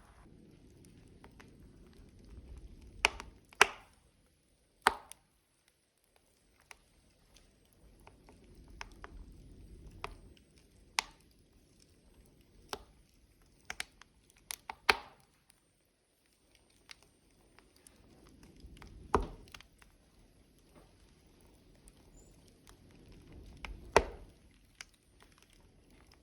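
Burning logs in a wood fire crackling, with sharp pops at irregular intervals over a soft low rush of flame.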